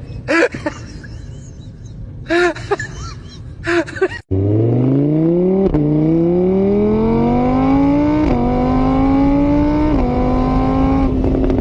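A few spoken words, then after a cut a car engine accelerating hard, its pitch climbing and dropping sharply at each of three upshifts before holding steady near the end.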